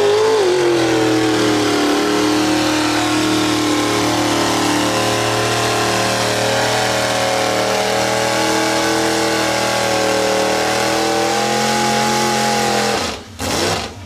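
Off-road vehicle engine running hard at high, nearly steady revs under load, its pitch rising briefly at the start, then holding with small dips and swells before cutting off abruptly near the end.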